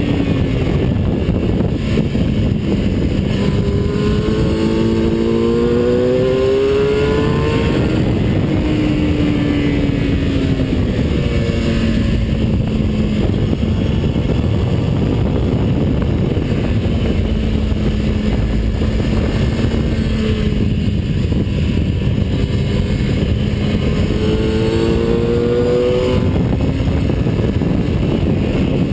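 A vehicle's engine at speed on a race track, heard on board over heavy wind rumble. It rises in pitch under acceleration about four seconds in and again near the end, falls back around eight seconds, and holds a steady note through the middle.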